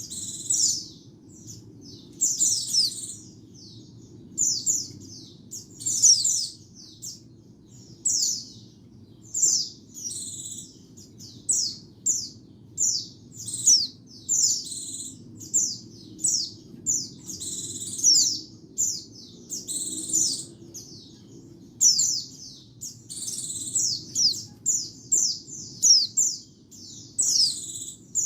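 White-eye (pleci) singing: quick clusters of high, thin twittering notes that slide downward, a phrase every second or so, over a faint low hum.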